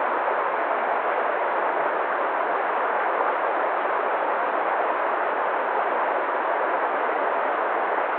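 Waterfall: falling water rushing in a steady, even wash of noise with no breaks or changes.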